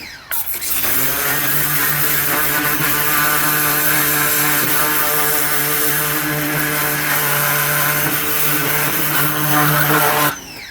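Ryobi 1900 PSI electric pressure washer spraying: its motor starts up about half a second in, runs steadily with the hiss of the water jet, and shuts off near the end as the trigger is let go, winding down.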